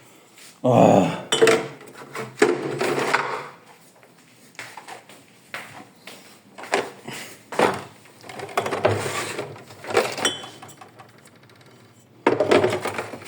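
Irregular clattering, clinking and knocking of hard objects being handled and set down, with a short exclamation about a second in.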